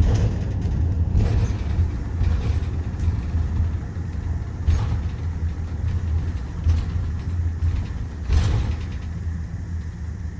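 Ride inside a Micro Bird Girardin G5 bus on the move: steady low engine and road rumble, with a few brief rattles, the loudest about eight seconds in.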